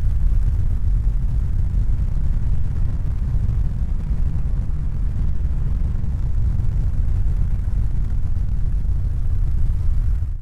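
Steady deep rumbling noise, even and without any rhythm or tone.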